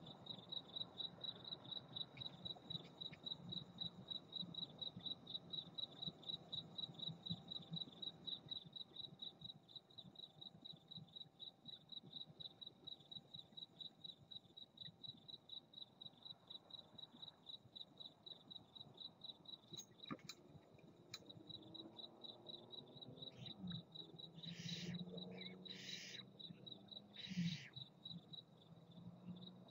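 A cricket chirping steadily, about three chirps a second, faint. In the last few seconds a barn owl gives four short rasping hisses.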